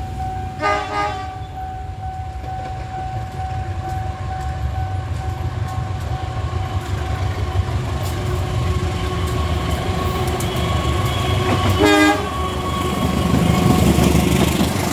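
Diesel locomotive hauling a passenger train, approaching and then passing close by, its low engine rumble growing steadily louder. Two short horn toots sound, a faint one about a second in and a louder one about twelve seconds in.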